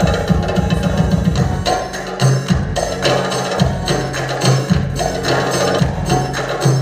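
Tabla played in a quick, steady rhythm over music, with sharp strokes and ringing low bass tones.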